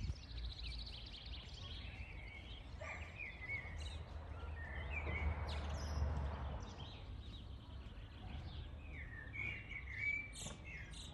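Small birds chirping and singing in short phrases, over a low rumble that swells around the middle.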